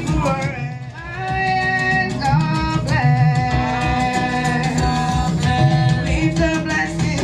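Worship music: voices singing a melody over a steady drum beat, with bass and plucked-string accompaniment.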